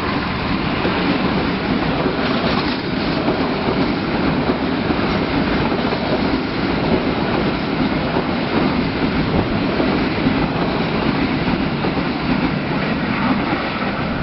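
Passenger train passing close by at speed: a loud, steady rush of wheels running on the rails.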